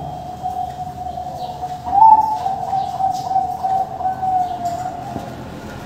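Zebra doves (Bangkok-bred perkutut) cooing in a near-continuous run of overlapping calls, loudest about two seconds in, with faint short chirps above.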